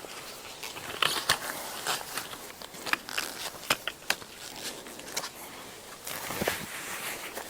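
Camping gear being handled during tent setup: scattered sharp clicks and snaps over crinkly rustling, with a cluster of louder clicks in the middle and a rustling swell near the end.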